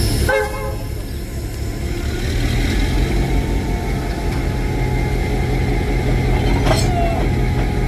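A heavy engine rumbling steadily low, with a constant hum setting in about two seconds in and a short sharp sound near the end.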